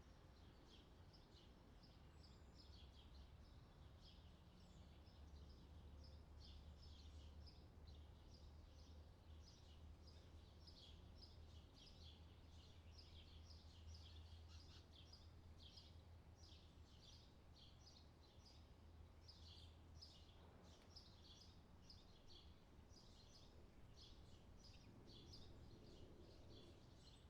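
Faint outdoor summer ambience: quick high chirping keeps going steadily over a low hum.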